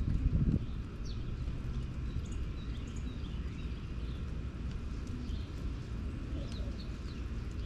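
Small birds giving short, scattered high chirps over a steady low rumble, with a brief louder low sound in the first half-second.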